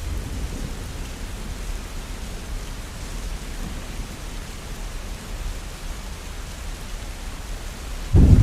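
Steady rain, with a low rumble of thunder dying away at the start. A new, loud rumble of thunder breaks in suddenly near the end.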